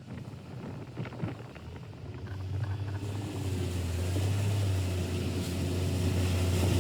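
Motorboat engine running steadily, with wind and water noise; the engine hum grows louder about two and a half seconds in.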